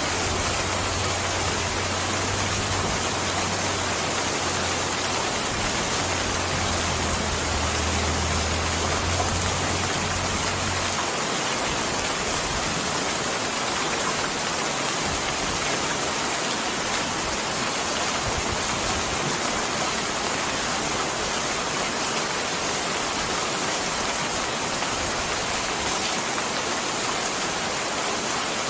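Steady rain pouring, a dense even hiss with no let-up. A low hum sits under it for about the first eleven seconds, then cuts off.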